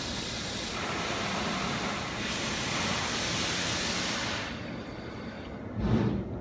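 Automatic car wash spraying water onto the car: a loud, steady hiss for about four seconds that then fades, followed by a single thump near the end.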